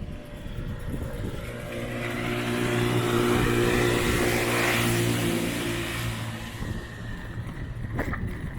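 A motorbike passing close by, its engine running at a steady note that grows louder to a peak about midway and then fades away.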